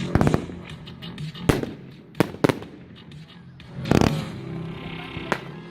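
A 500 g consumer firework cake firing its shots: a run of sharp bangs from the breaks and crossette splits, a cluster at the start, single bangs at intervals after, and the loudest about four seconds in, followed by a brief hiss.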